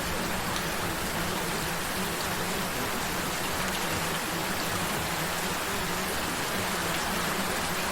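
Gentle rain falling steadily, an even patter with no breaks.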